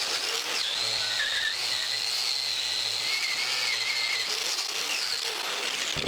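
A power tool running steadily: a continuous hiss with a high whine over it that cuts off suddenly at the end.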